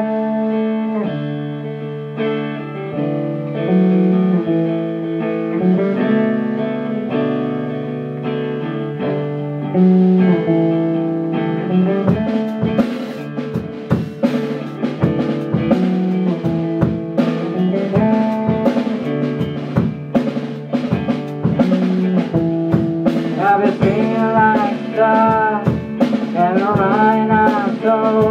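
A band's rock song: an intro of sustained chords, with a drum kit coming in about twelve seconds in. Near the end a voice starts singing a melody with improvised placeholder words, as lyrics had not yet been written.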